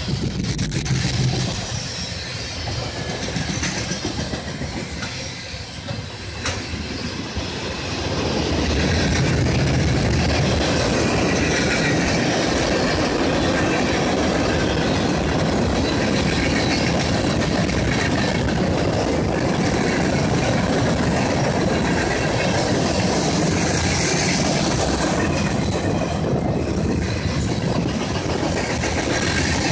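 Freight cars of a passing manifest train rolling by on the rails: a steady rumble of steel wheels on track that gets louder about eight seconds in and stays loud.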